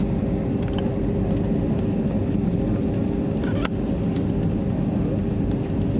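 Steady cabin drone inside an Airbus A321 airliner, with a constant hum running through it and a sharp click about three and a half seconds in.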